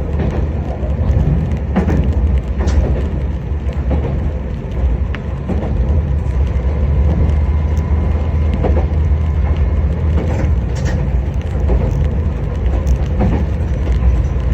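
Haimo 295 diesel railcar running along the line as heard from inside the cab: a steady low engine and running hum, with a few sharp clicks and knocks from the wheels on the track now and then.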